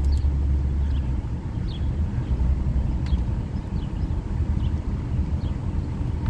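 Steady low rumble of a car driving, engine and road noise as heard from inside the moving vehicle.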